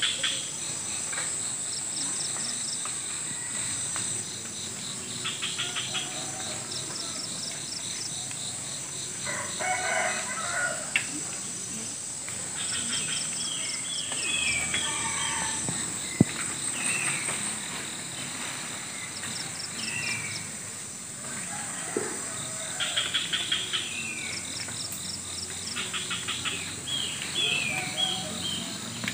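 Countryside morning ambience: a steady high insect whine, repeated pulsing chirps and short falling bird calls, with a rooster crowing in the background. A couple of sharp clicks stand out, about 11 and 16 seconds in.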